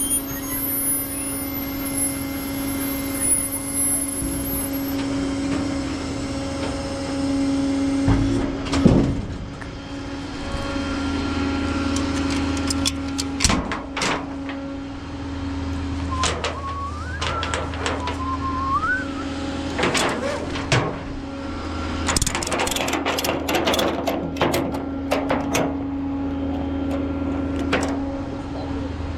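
Tow truck's engine running steadily, with scattered metal clanks and knocks while the car is being unloaded from it.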